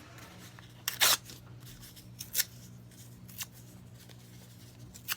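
Brown paper-bag paper being torn into small pieces by hand: a few short rips, the longest about a second in, then shorter ones spaced about a second apart.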